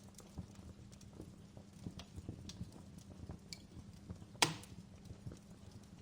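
Wood fire crackling in a fireplace, with small irregular pops and one loud sharp crack about four and a half seconds in, over a low steady hum.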